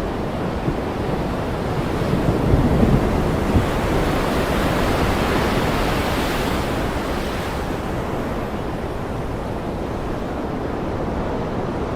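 Ocean surf washing steadily, with a wave swelling in about halfway through.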